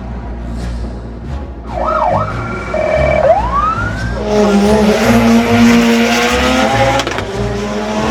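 Music with a steady bass beat, over which a siren-like wail and a rising sweep sound. About four seconds in, a loud car engine comes in, revving with slowly rising pitch.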